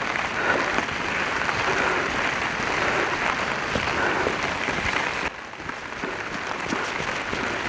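Rain falling steadily close to the microphone, a dense crackle of drops that softens a little past five seconds in.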